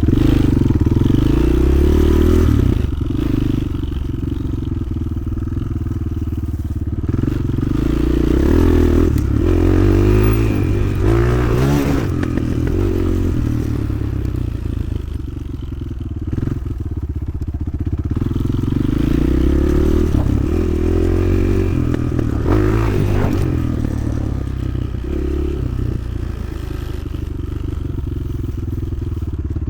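Motoland XR 300 Lite enduro motorcycle's single-cylinder engine under way, its revs rising and falling again and again as the throttle is opened and closed, with the bike rattling and scraping.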